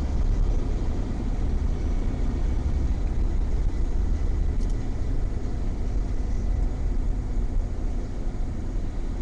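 Steady low rumble inside a car as it drives: road, engine and wind noise.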